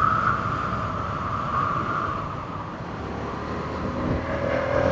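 Yamaha MT-07's parallel-twin engine running under way, with steady wind noise. The engine eases off in the middle, then its pitch rises again toward the end as it picks up.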